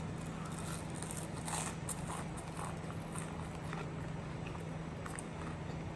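Close-up biting and chewing of a breaded, deep-fried risol mayo: crackly mouth clicks, densest in the first couple of seconds and then sparser as the chewing goes on.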